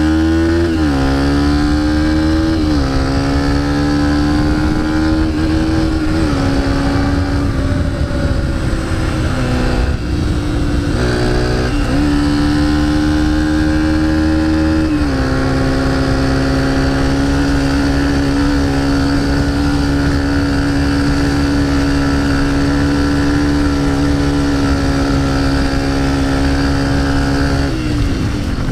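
Pit bike engine revving: the pitch rises and falls several times, then is held at steady high revs for a long stretch before dropping off near the end.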